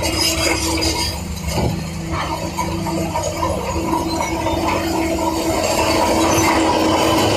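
Heavy diesel construction machinery running: a steady engine drone with some metallic clinking.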